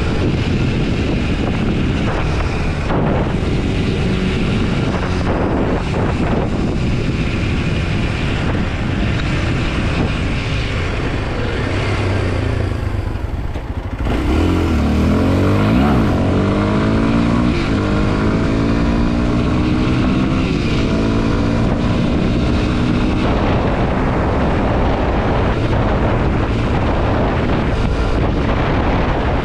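Kawasaki KLX230 SM's single-cylinder four-stroke engine running under way, heavy wind noise on the microphone. Around the middle its pitch climbs several times over as the bike accelerates through the gears.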